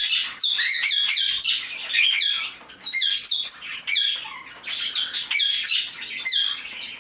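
A flock of pet budgies and cockatiels chirping and calling over one another, with many short, overlapping chirps and the odd squawk.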